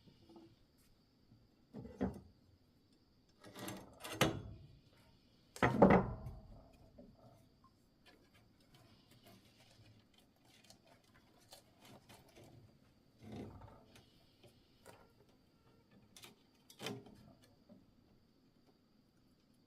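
Irregular knocks and thumps, as of things being handled and set down, the loudest about six seconds in, over a faint steady high-pitched tone.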